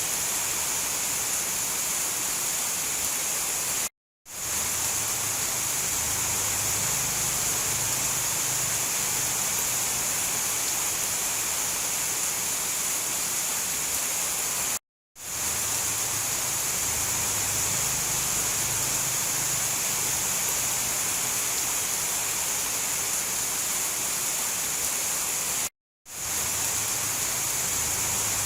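Steady rain noise, an even hiss with no distinct drops or thunder claps. It cuts out to silence for a split second three times, about every eleven seconds, where the recording loops.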